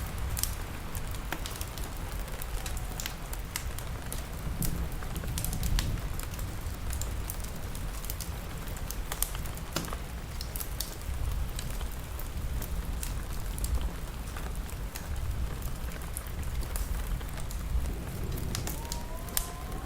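Wood fire crackling with sharp pops throughout, over steady rain and a low rumble.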